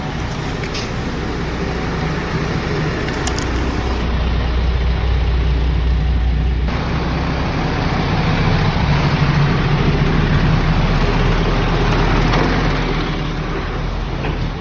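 Motor vehicle engine running steadily, a low hum under a haze of engine and road noise, with an abrupt change in the sound about halfway through.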